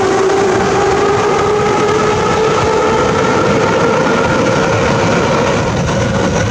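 Moscow Metro Ezh-type train's traction motors running with a whine that rises slowly in pitch as the train accelerates, over a steady rumble of the wheels on the rails.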